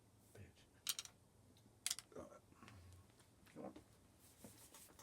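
Faint clicks and light taps from hands working small plastic model parts, with two sharper clicks about a second apart near the start and softer taps after.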